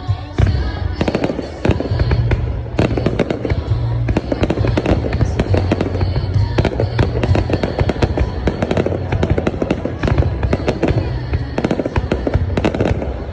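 Fireworks going off in a dense, continuous crackle of many sharp pops and bangs, with music playing underneath.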